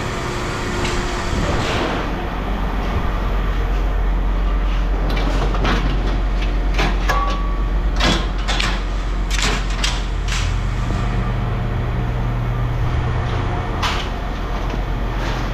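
Scrap metal clanking and knocking as pieces are handled and set down, over the steady low hum of an idling vehicle engine.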